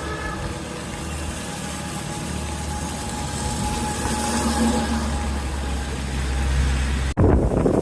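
Motor vehicle engine running steadily in road traffic, with a low, even hum. Near the end it cuts abruptly to a louder, rougher noise.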